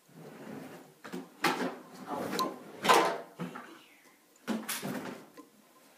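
Handling noise of hands starting thread on a fly hook in a tying vise: an irregular run of scrapes and knocks, loudest in the middle and again near the end.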